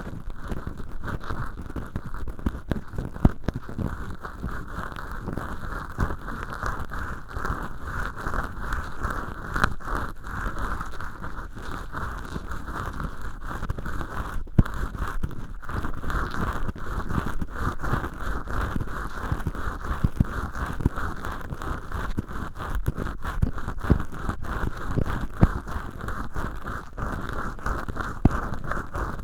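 Cotton swabs rubbing and scratching inside ear holes made of acrylic dish-scrubber sponge, worked in both ears at once: a dense, continuous crackly rustle with many small clicks.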